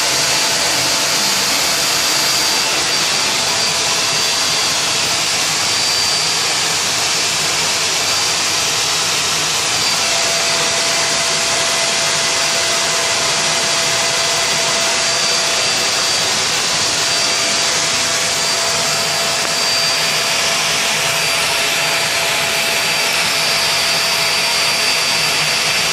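Vacuum cleaner running steadily: a continuous loud rushing hiss with a faint high whine, and a low hum that comes in about ten seconds in.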